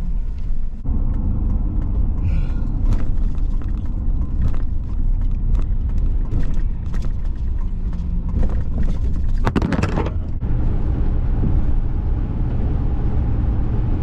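Vehicle under way: a steady low rumble of engine and road noise that grows a little louder about a second in, with one brief, louder rushing noise about nine and a half seconds in.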